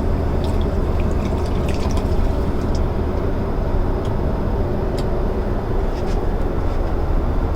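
Steady in-flight drone of a Boeing 777-300ER airliner heard inside its lavatory, a deep even rumble with a few faint light ticks scattered through it.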